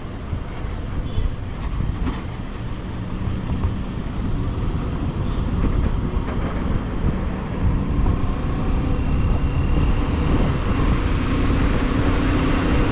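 Motorcycle under way: a Bajaj Pulsar's single-cylinder engine running beneath dense wind and road rumble. It grows gradually louder, with a low steady hum coming in near the end.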